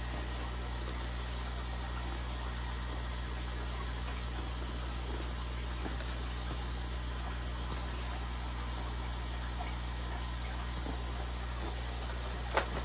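Steady low electrical hum, with one short click near the end.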